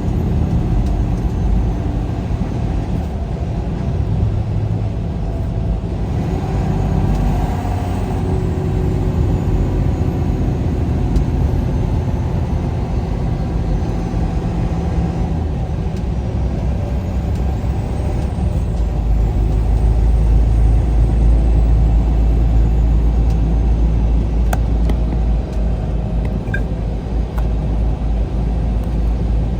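Truck engine and road noise heard while driving, a steady rumble that grows deeper and louder about two-thirds of the way through.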